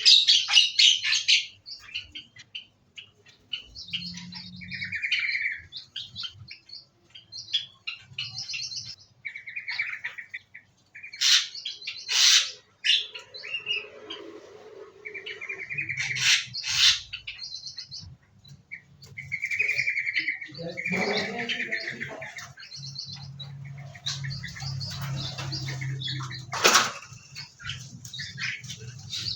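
Small cage birds in an aviary chirping in quick repeated notes, with several brief sharp wing flutters.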